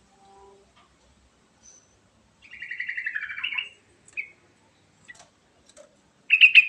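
Yellow-vented bulbul (trucukan) singing: a rapid, bubbling phrase of quick notes lasting about a second, dipping lower at its end. A short single note follows, and a brief loud burst of notes comes near the end.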